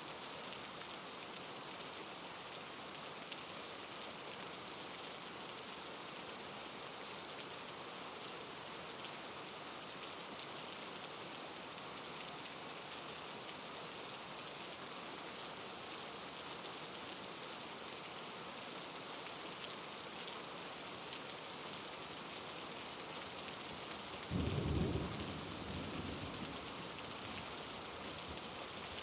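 Steady rain falling with a soft even hiss. About 24 s in, a short low rumble of thunder rises suddenly and fades over a couple of seconds.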